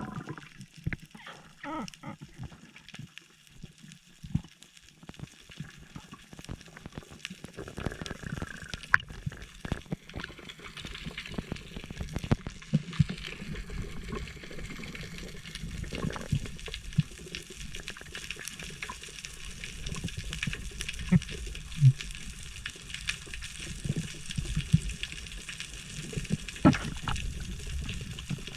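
Water sloshing and gurgling around a spearfisher in the sea, with many scattered short clicks and knocks over a low rumble.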